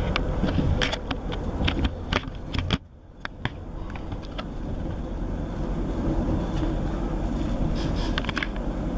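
Class 158 diesel multiple unit heard from inside the carriage while running at speed: a steady low rumble with scattered clicks and rattles. About three seconds in, the sound cuts out suddenly for a moment, then comes back gradually.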